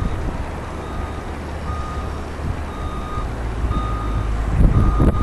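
A vehicle's reversing alarm beeping at one steady pitch, about once a second, over a low steady rumble of wind on the microphone.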